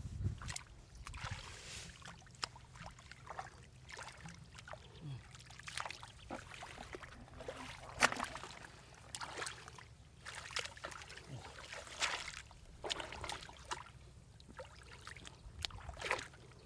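Irregular splashing and sloshing of shallow water, in short separate bursts, with a sharper splash about eight seconds in.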